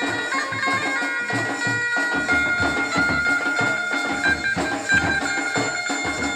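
Traditional folk music: a reedy wind instrument holds a sustained, droning melody that steps between notes, over steady drum beats.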